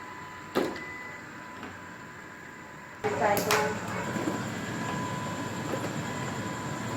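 Robot vacuum cleaner running with a steady hum and whine, a sharp knock about half a second in; about three seconds in it suddenly gets louder and stays so, with a brief pitched sound and a few clicks as it changes.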